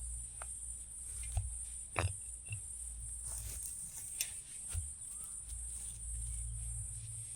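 Forest insects singing in a steady, high-pitched chorus, with a low rumble and a few scattered clicks and knocks, the loudest about two seconds in.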